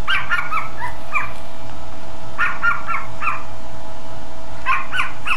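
Small dog barking in three quick runs of high-pitched yaps, four to six barks each, over a steady faint hum.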